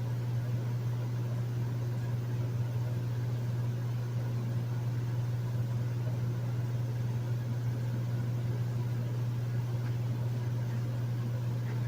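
Hotel room air conditioner running steadily: a strong low hum under an even fan hiss.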